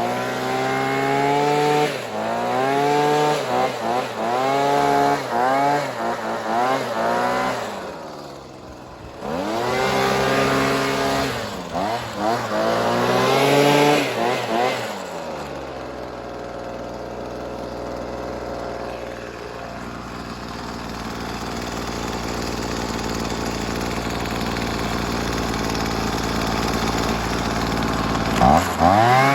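Hitachi RB24EAP handheld leaf blower's 23.9 cc two-stroke engine, just cold-started, being revved with repeated throttle blips for about the first fifteen seconds, then settling to a steady idle, with one more rev near the end.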